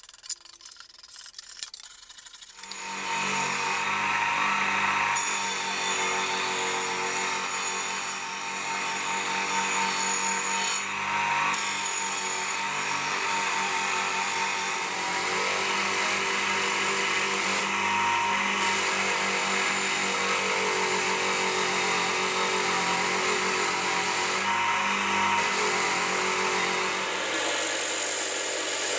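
An electric power tool starts about two and a half seconds in and runs steadily, a motor hum under a gritty rubbing noise: abrasive rust removal on the rusty steel of a bayonet. A few faint rattles come before it starts.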